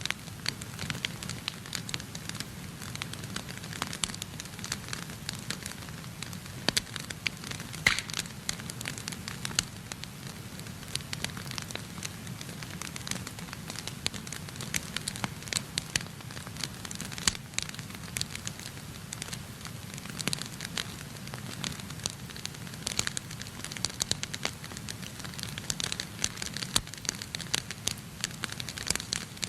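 Wood fire in a fireplace crackling, with frequent sharp pops of varying strength over a steady low rumble; one louder pop comes about eight seconds in.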